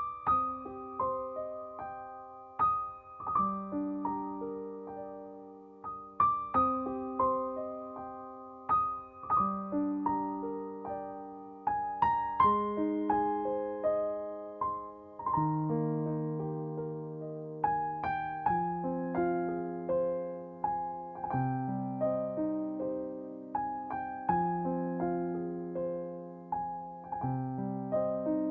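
Soft piano music: a slow melody over held chords, each note struck and left to ring out.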